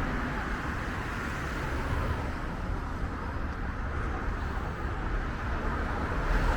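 Steady outdoor background noise of road traffic, an even hum with a low rumble and no distinct events.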